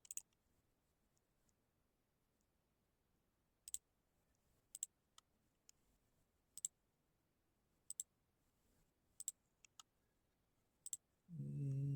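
Computer mouse clicking: single sharp clicks, about one a second, with near silence between.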